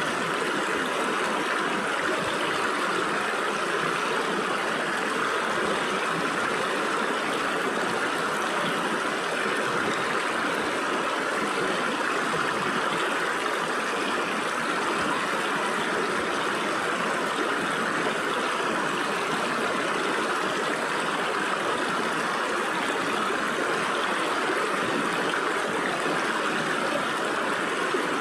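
Stream water flowing and splashing steadily through gaps between rocks.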